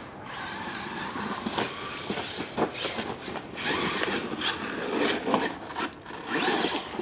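Brushless 1/10-scale RC truck driving on loose, dry dirt: a gritty scraping and crunching of tyres on dirt and gravel, with many scattered clicks and knocks.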